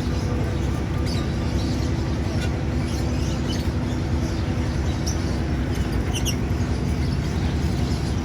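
A steady low rumble with a faint hum beneath it, and short high bird chirps four or five times.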